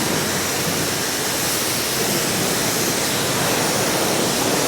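Car wash spray wand running steadily, spraying soapy water against the side of a coach bus as an even rushing hiss.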